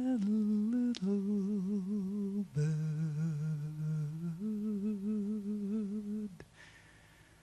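A singer's voice in the song recording hums a slow, wordless closing phrase of a few long held notes with vibrato, dipping lower about two and a half seconds in and rising again, then stopping about six seconds in.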